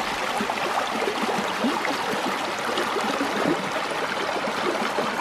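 Small stream tumbling over rocks: a steady, close rush of water full of gurgles.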